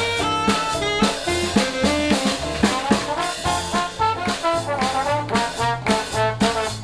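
Jazz band with trumpet, trombone and drum kit playing a swing tune over a bass line, with a steady beat.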